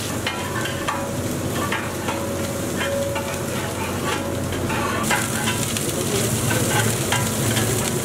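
Onions, green chillies and ginger-garlic paste sizzling in hot oil in a large steel cooking pot, while a long metal ladle stirs and scrapes, giving scattered clinks of metal on metal. A steady low hum runs underneath.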